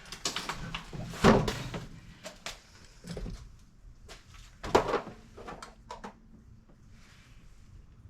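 Clicks and knocks of plumbing fittings and tools being handled, with two louder knocks, one about a second in and one near five seconds, and fewer after about six seconds.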